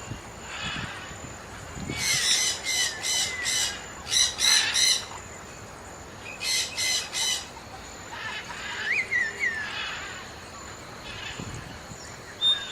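Birds calling: harsh squawking notes repeated about four or five a second, in three short runs, with thinner whistled chirps between.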